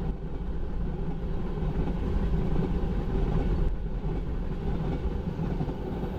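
Empty railroad tank cars of a freight train rolling past: a steady low rumble of steel wheels on rail.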